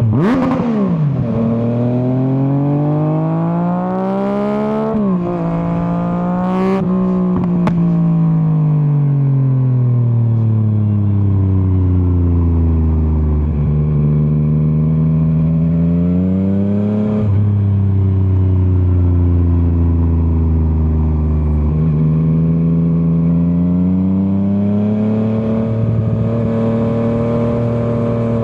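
2024 Yamaha MT-09's three-cylinder engine under way. The revs climb with two quick breaks in the first seven seconds, as on upshifts, with a few sharp pops. Then the pitch falls slowly under engine braking, jumps up about seventeen seconds in, sinks again, and rises once more near the end.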